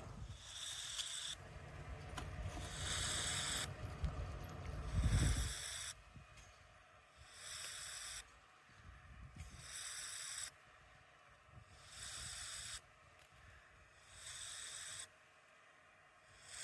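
Bursts of radio static from a motorcycle helmet headset's radio, each about a second long and repeating roughly every two seconds, as it scans for stations and finds none. A low rumble runs under the first few seconds.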